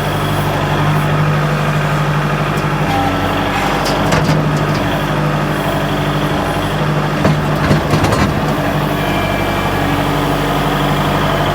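Kubota L47 backhoe tractor's diesel engine running at a steady speed while loading, with a few short knocks about three to four seconds in and again near eight seconds.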